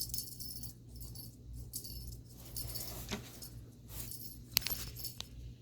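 A cat toy with a small bell jingling in short, repeated bursts as it is batted about during play.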